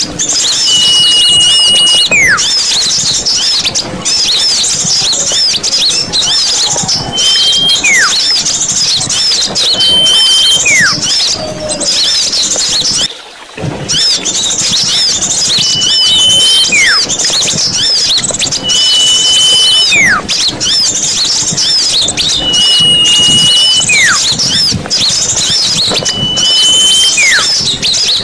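A bird-lure recording of many small birds twittering and chirping densely together. Every three to four seconds one bird gives a held whistle followed by a quick falling note. A brief break comes about 13 seconds in.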